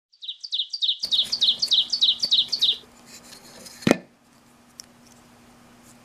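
A bird chirping about ten times in quick succession, some four notes a second, each note dipping slightly in pitch. About a second after the chirps stop comes a single sharp click.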